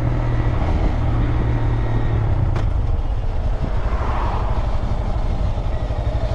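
Motorcycle engine running while being ridden. About halfway through, the engine note drops into a slower, pulsing beat as the bike eases off.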